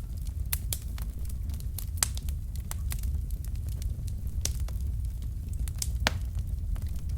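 Wood fire burning in a fireplace: logs crackling with irregular sharp pops over a steady low rumble of the flames. One pop about six seconds in is louder than the rest.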